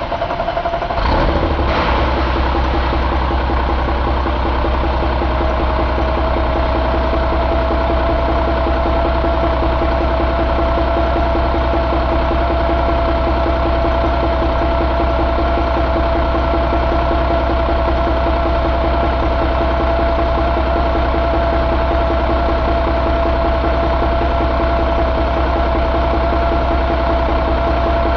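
2000 Cummins ISM inline-six diesel engine coming up to speed about a second in, then idling steadily for the rest of the time. A steady high whine runs over the idle, rising slightly over the first few seconds before holding level.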